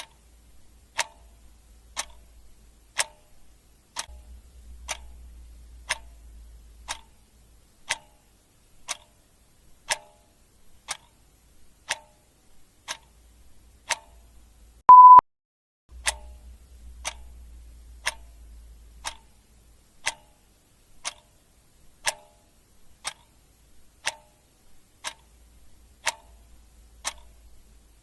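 Clock ticking steadily, a regular tick-tock of sharp clicks. About halfway through, a single short, loud electronic beep sounds over the ticking.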